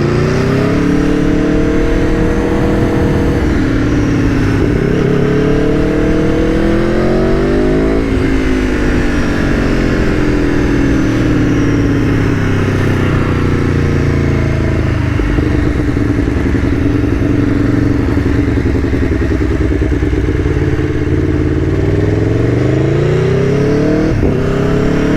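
Aprilia Tuono V4 1100 Factory's V4 engine pulling under way. The revs climb twice in the first eight seconds, then the pitch drops sharply and winds down to a steady cruise, before climbing again near the end.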